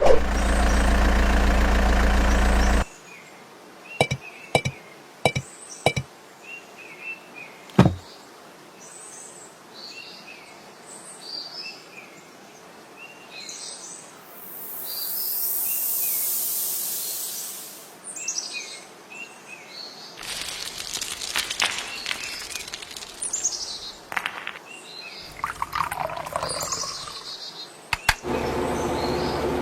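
Birds chirping in short scattered calls. A loud, low engine-like drone cuts off about three seconds in, followed by a few sharp clicks, and a hiss swells and fades around the middle.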